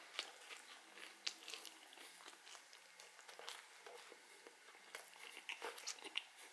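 A person chewing a bite of a homemade sea bass burger in a sesame bun: soft, irregular crunches and mouth clicks, quiet.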